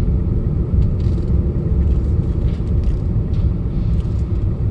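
Hyundai Accent heard from inside the cabin while driving: a steady low rumble of engine and road noise, with the air conditioning running. The engine is warmed up and runs quietly.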